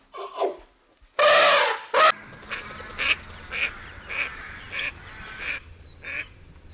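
Waterfowl calling: one loud, drawn-out honking call about a second in, then a run of short calls about every half second.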